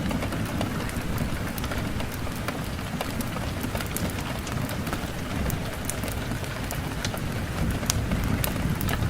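Steady rain ambience with a low rumble, scattered throughout with sharp crackles of a wood fire in a fireplace.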